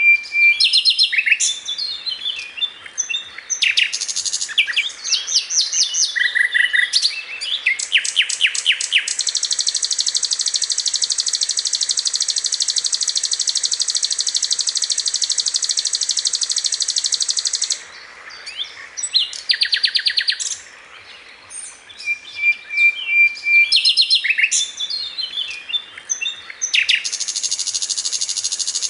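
Sikatan londo songbird singing a varied song of sharp chirps and quick trills, with a long rapid buzzing trill in the middle and another starting near the end.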